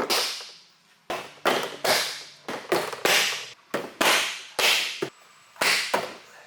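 Repeated hard blows, about a dozen at an uneven pace of roughly two a second, each sharp and ringing briefly: a hammer striking metal, likely on the car's exhaust downpipe.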